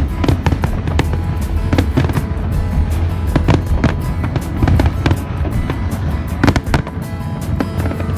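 Aerial fireworks bursting in quick succession, many sharp bangs and crackles, a few louder booms standing out. Under them, loud music with a heavy bass plays from the show's sound system.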